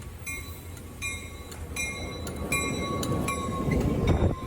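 An Altamont Corridor Express commuter train approaching, its rumble growing steadily louder, while a bell rings about once every three-quarters of a second.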